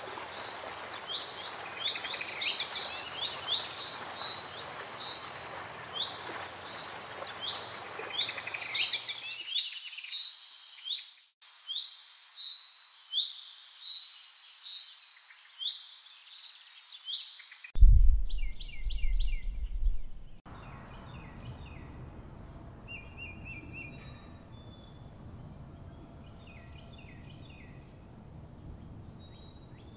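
Several songbirds singing and chirping in a dense, overlapping chorus over a steady outdoor hiss. About two-thirds of the way through, a loud low rumble lasts about two seconds. After it come quieter, sparser short chirps and repeated calls.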